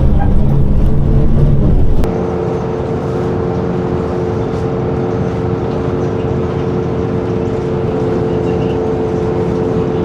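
Motor vehicle engine running: a loud low rumble that cuts off suddenly about two seconds in, replaced by a steadier, quieter engine drone with a constant hum.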